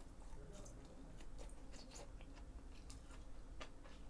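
A person chewing food close to the microphone, faint, with scattered small clicks and crunches.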